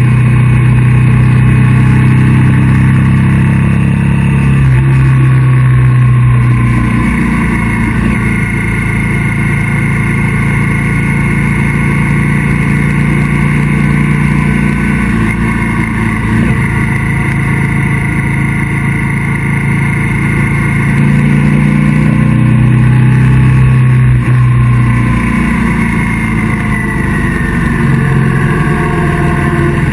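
Motorcycle engine running at road speed, heard from a camera mounted on the bike, with its note shifting a few times as the throttle and speed change.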